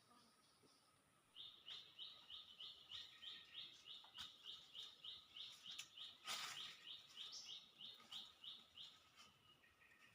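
A bird calling a fast, even run of short high chirps, about three or four a second, starting just over a second in and stopping near the end. A single sharp click about halfway through.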